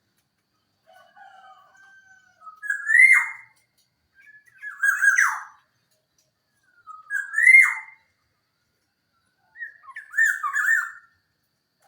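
Black-naped oriole (kepodang) calling: four repeated calls about two seconds apart, each a soft lead-in followed by a loud note that rises and then falls away sharply.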